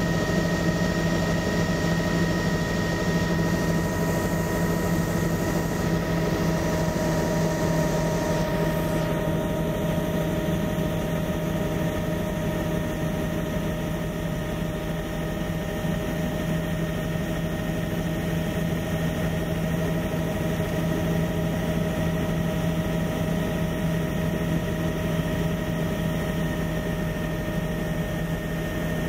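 Steady aircraft engine drone in flight, unchanging, with several constant whining tones over a low hum.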